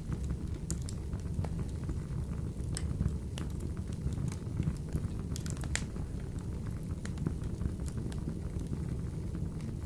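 Wood fire burning in a wood-burning stove: a steady low rumble with irregular sharp crackles and pops from the burning logs, a few close together around the middle.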